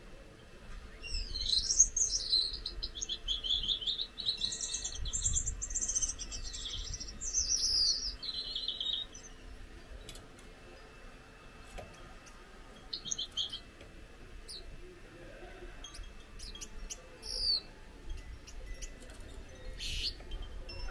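Gouldian finch singing: a rapid run of buzzy, high-pitched notes lasting about eight seconds, then a few short scattered notes later on.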